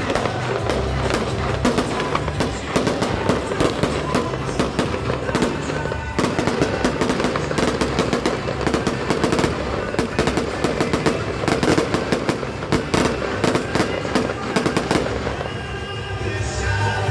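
Fireworks going off in a rapid, dense volley of bangs and crackles, many per second, thinning out near the end, with music playing underneath.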